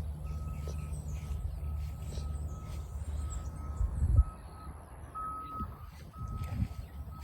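A steady low rumble, with a thin high-pitched tone sounding on and off in uneven stretches and faint rustling. About four seconds in there is a loud bump, after which the rumble drops away.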